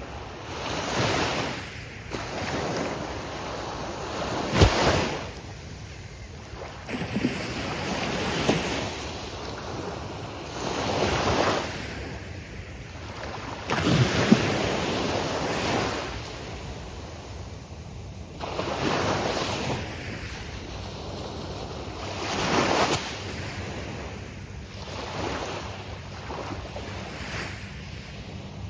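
Gulf of Mexico surf breaking on the beach, each wave swelling and washing out a few seconds apart, with a couple of sharper crashes.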